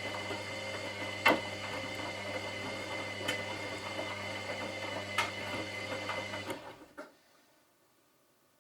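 Washing machine running, its drum motor humming steadily with a sharp knock about every two seconds as the load tumbles. The drum then winds down and stops about seven seconds in, with a last click, leaving near silence.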